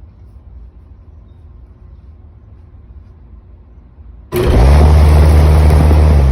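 Commercial Carrier condensing unit starting up with its newly replaced condenser fan motor: about four seconds in, it kicks on suddenly with a loud rush of air and a steady low hum, and the fan blows out the leaves that had collected in the unit.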